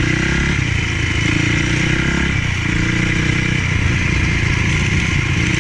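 Honda CRF450 motocross bike's single-cylinder four-stroke engine being ridden. The engine pitch climbs, drops briefly about two and a half seconds in as the throttle eases or the gear changes, then climbs again.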